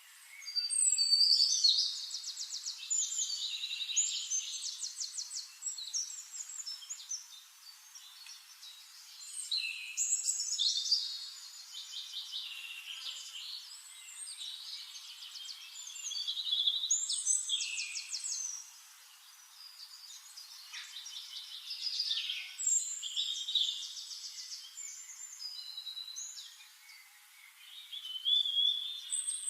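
A songbird singing long, elaborate phrases of rapid trills and whistles, about five songs with short pauses between them.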